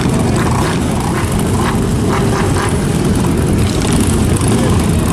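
Motorcycle engines running with a steady, loud, low rumble, and faint voices in the background.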